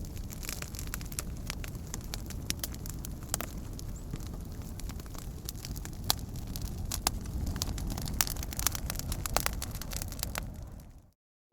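Campfire burning, with frequent sharp crackles and pops over a steady low rumble. The sound fades out to silence just before the end.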